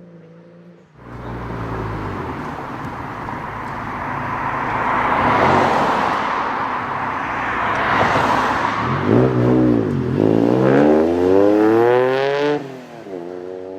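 A car engine at high revs with heavy exhaust noise, cutting in sharply. From about nine seconds in its pitch climbs steeply as it accelerates hard, then it drops away near the end.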